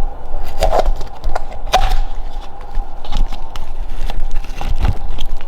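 Packaging being pulled out of a small ceramic mug ornament: irregular crinkles, clicks and light knocks close to the microphone.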